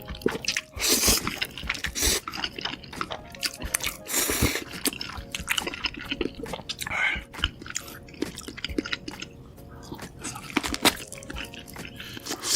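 Close-miked mouth sounds of someone eating a noodle dish: wet chewing and smacking clicks throughout, with two longer wet bursts about a second and about four seconds in.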